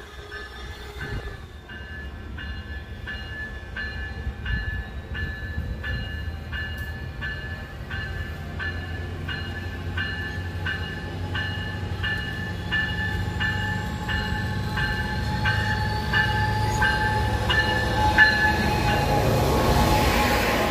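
Commuter train led by a Siemens Charger diesel locomotive approaching and passing, its engine rumble growing louder as it nears, with a bell ringing steadily about twice a second. The loudest rush of the train comes near the end as the locomotive goes by.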